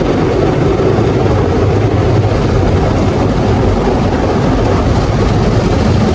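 A loud, steady mechanical rumble with a hiss of noise above it, unchanging throughout.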